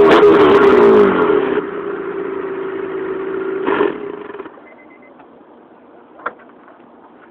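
Honda Civic Si engine through a Greddy exhaust, revved high and held at a steady pitch as on launch control, with sharp crackles in the first second. The level drops about a second in and the engine sound stops about four and a half seconds in, with a short louder burst just before; after that it is quiet apart from a faint click.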